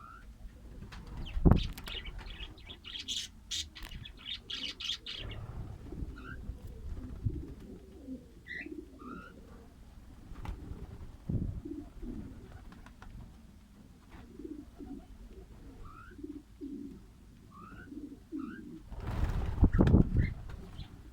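Caged pet birds calling: short rising chirps scattered throughout over lower, repeated cooing notes. A knock comes about a second and a half in, and a burst of rustling, like wing flapping, follows from about two to five seconds in.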